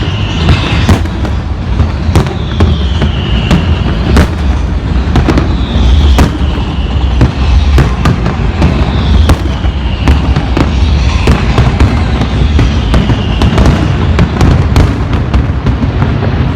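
Fireworks going off without pause: a dense run of bangs and crackles over a low rumble. A falling whistle recurs about every two seconds.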